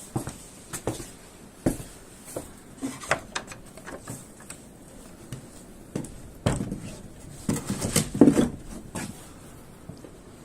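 Irregular knocks and clatter of hard objects being handled, like pots and utensils, with the busiest and loudest run of knocks in the second half.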